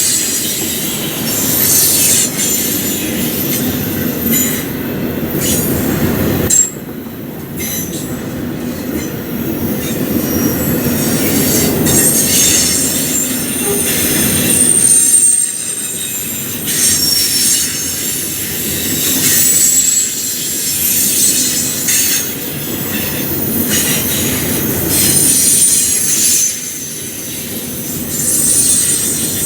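Freight train cars rolling past, the wheels giving a high squeal over a steady rumble, with repeated clacks as they run over rail joints and the diamond crossing.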